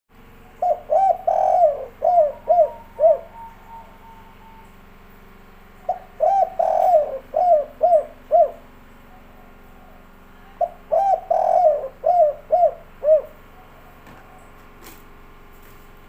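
Spotted dove (tekukur) cooing in the 'kuk 3' song style. There are three phrases of quick coos, each about two and a half seconds long, with a pause of a few seconds between them.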